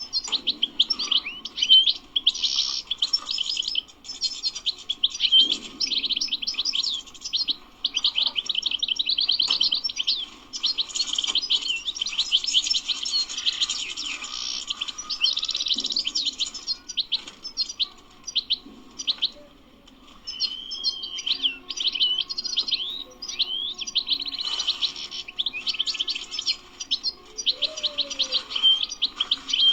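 European goldfinch singing: long runs of rapid twittering chirps and trills, with a short pause about twenty seconds in.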